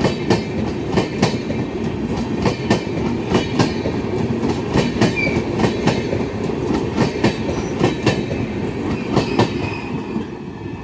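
Rajdhani Express coaches rolling slowly past, their wheels clacking over the rail joints in quick pairs over a steady rumble, which eases slightly near the end.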